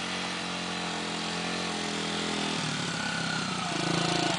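Dirt bike engine running as it is ridden. The engine note drops just past halfway, then grows louder and choppier near the end.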